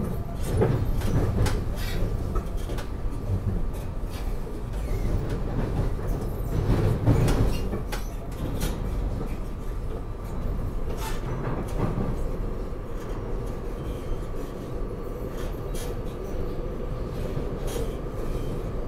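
Electric commuter train running, heard from inside the passenger car: a steady low rumble with irregular clicks and knocks from the wheels and car, and a faint steady hum above it. It swells briefly about a second in and again around seven seconds.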